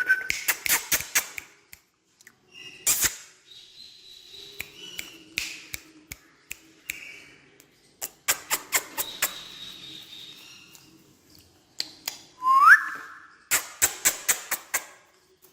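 Parrot whistling: a short upward-gliding whistle near the end, another one tailing off just at the start, and runs of sharp rapid clicks and taps in between.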